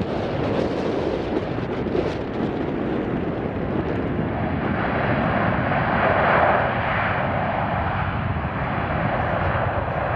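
Jet airliner engines passing: a steady rushing with a faint high whine that swells to its loudest about six seconds in. Gusty wind buffets the microphone in the first few seconds.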